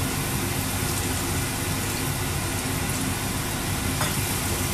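Tomato-onion masala cooking in a pan on a gas stove: a steady sizzling hiss over a steady low hum, with no stirring.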